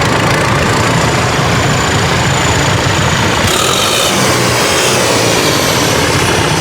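Vintage tractor engine running steadily with an even low pulse, its sound shifting abruptly about halfway through.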